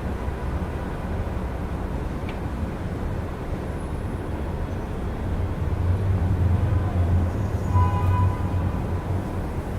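Night city traffic: a steady low rumble of engines and tyres, swelling as a heavier vehicle passes in the second half. A brief high-pitched tone sounds near the end.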